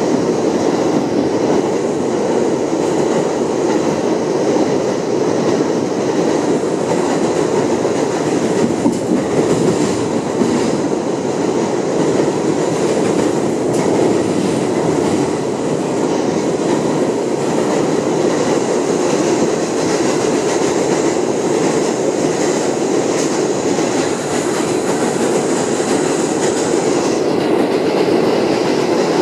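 Inside an R62A subway car of a 7 train running at speed: a steady rumble of wheels on rail with a high hiss, a few faint clicks from the rails, and the hiss dropping away briefly near the end.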